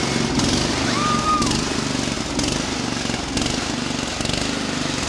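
A machine engine running steadily, with a regular swishing hiss about once a second and a brief high whistle-like tone about a second in.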